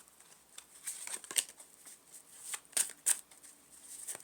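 Tarot cards being shuffled and handled: a series of irregular, short, crisp card slaps and flicks.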